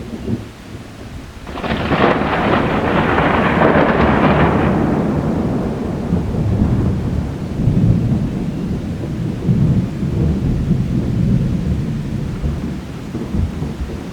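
A thunderclap about a second and a half in: a sharp crack that fades over a few seconds into long rolling rumbles of thunder.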